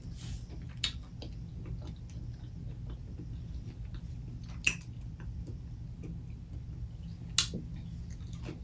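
Soft, close-miked chewing and mouth sounds, with a few sharp wet clicks about a second in, just past the middle and near the end, over a steady low hum.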